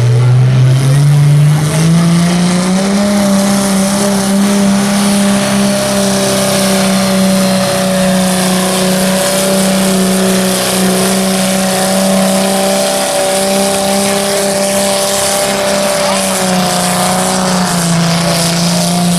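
Antique tractor engine running hard under load: its revs climb over the first few seconds, then hold steady, with a brief dip a couple of seconds before the end before picking back up.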